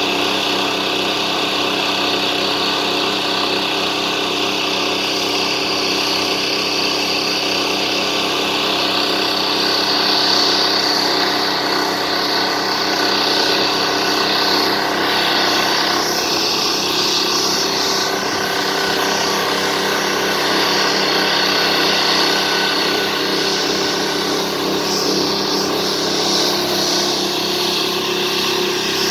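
Engine-driven Demon Tornado mini washing cart running steadily at constant speed, with a high hiss over the motor that grows stronger about ten seconds in.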